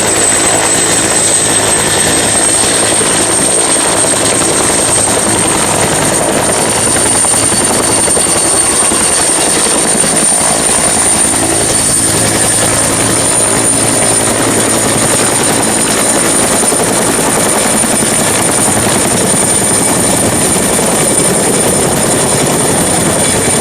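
Helicopter sound: a steady, dense rotor-and-engine noise with a thin high whine that rises slightly over the first few seconds, then holds. It stops suddenly.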